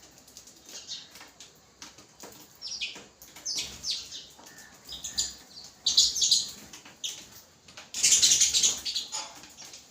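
House sparrows chirping in short, irregular bursts, with wings flapping among the calls. The loudest, densest flurry of chirps comes about eight seconds in.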